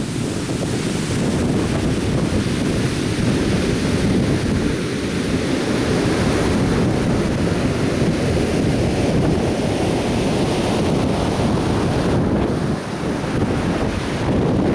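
Atlantic surf breaking and washing on the beach in a steady roar, with wind buffeting the microphone.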